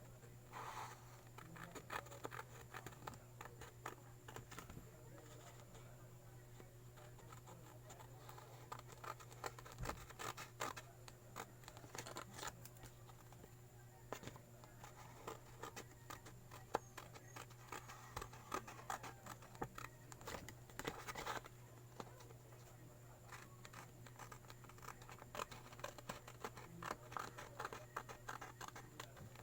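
Faint, irregular scratching and snipping of gasket paper being cut and worked by hand, with many small clicks over a steady low hum.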